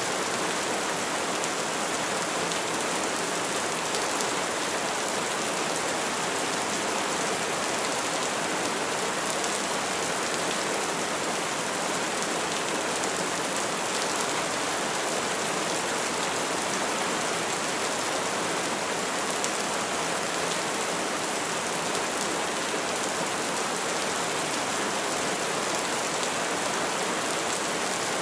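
Steady heavy rain falling on surfaces, an even hiss of drops.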